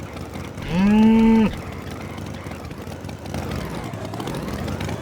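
A cow mooing once, a call of under a second that rises at the start and then holds steady, over a steady low background rumble.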